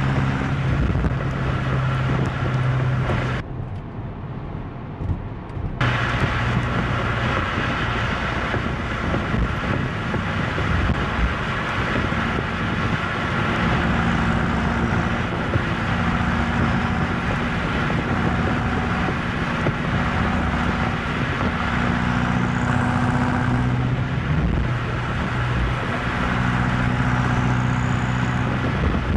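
BMW M8 Competition's twin-turbo V8 running at a steady cruise, with steady tyre and road noise. About three and a half seconds in, the sound drops and thins for roughly two seconds, then returns to the same steady running.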